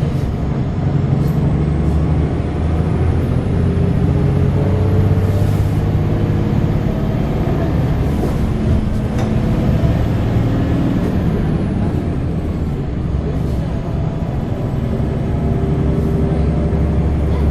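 Zyle Daewoo NEW BS090 Euro 6 diesel bus engine running as the bus drives, its pitch rising and falling with engine speed, with a few short hisses and a faint high whine rising then falling about halfway through.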